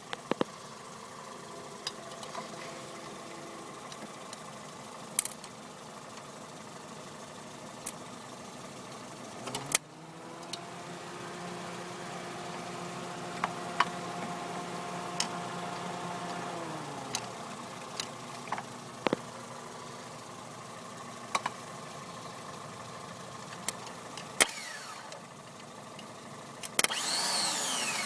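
Jeep Comanche engine during a failing start attempt: a steady engine hum that rises in pitch about ten seconds in, holds for several seconds, then falls back. Scattered clicks run through it, and a louder noisy burst comes near the end.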